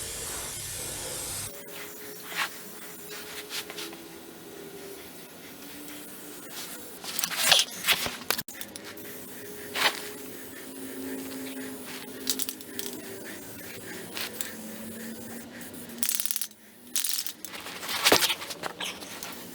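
Undercoating spray gun hissing as it sprays Fluid Film oil, stopping about a second and a half in. Scattered sharp clicks and knocks follow.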